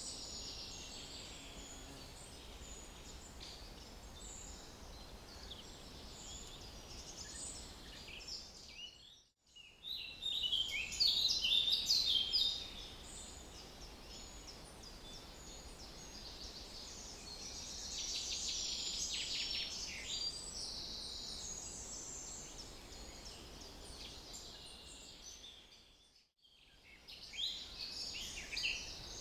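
Small songbirds chirping and trilling in a chorus over a faint steady background hiss. The sound drops out briefly about nine seconds in and again near the end, then picks up again.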